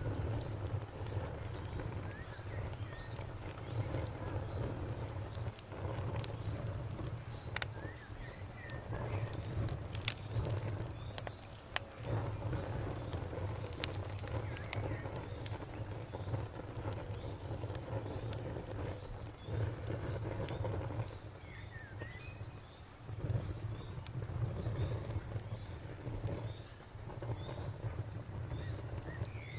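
Crickets chirping in a steady, fast pulsing trill, with scattered sharp pops of a crackling fire and a few short bird chirps over a low rumble.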